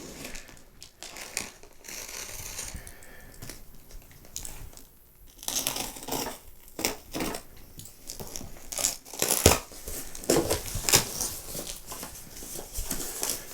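Flat-pack furniture packaging being unboxed by hand: wrapping crinkling and tearing, with scattered knocks and rustles that grow busier and louder in the second half.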